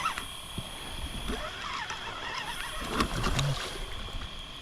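Steady high-pitched drone of night insects, with scattered sharp knocks and clatter from handling a fishing line, and a brief low murmur of a man's voice about three seconds in.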